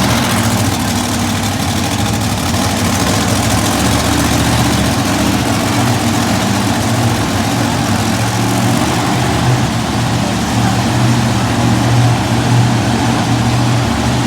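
Monster truck engine running steadily at a low, even pitch, with only slight swells in level.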